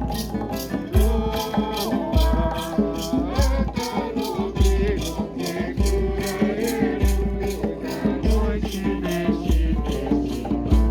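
A group singing a Santo Daime hymn to instrumental accompaniment, with maracas shaken in a steady beat of about three strokes a second and low bass notes underneath.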